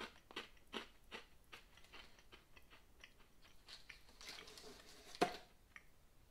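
Faint crunching of a thin, hard snack stick being chewed, the crunches coming about two or three a second, with one sharper, louder click a little after five seconds.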